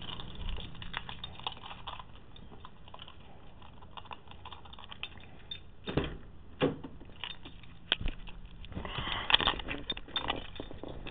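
Car keys jangling with scattered light clicks and knocks, as the key is handled at the ignition.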